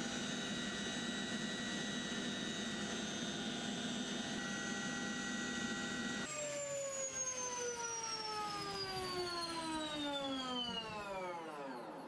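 Helicopter turbine engines running with a steady high whine. About six seconds in, the whine changes to one that falls steadily in pitch over about five seconds, the engines winding down after shutdown.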